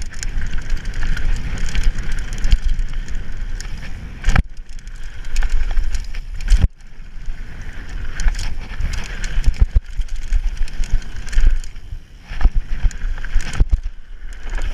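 Mountain bike riding down a bike-park dirt trail: a continuous low rumble of tyres and wind, with the bike clattering and knocking sharply over bumps several times.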